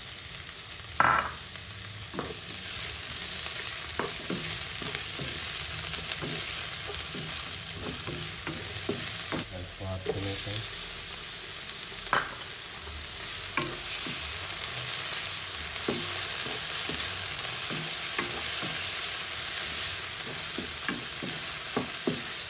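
Chopped garlic, ginger, onion and then tomatoes sizzling in hot oil in a nonstick wok, with a steady hiss throughout. A wooden spatula stirs and scrapes the pan, with scattered clicks and knocks, the sharpest about a second in and again about halfway through.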